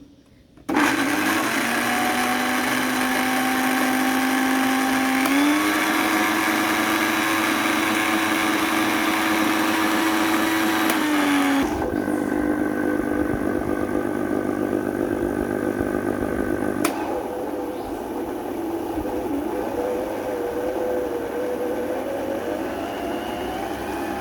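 Electric blender switched on about a second in, its motor running steadily as it blends fruit for a shake. The motor's pitch steps up a little about five seconds in and shifts again about halfway through, and it keeps running to the end.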